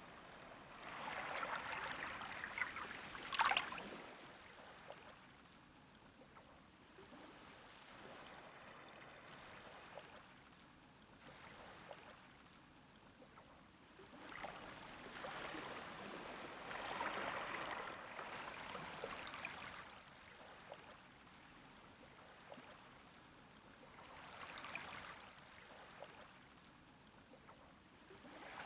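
Small waves of a calm sea washing up onto a beach, in slow surges several seconds apart with quieter spells of backwash between. The strongest wave comes near the start and ends in a sharp splash; another builds at the very end.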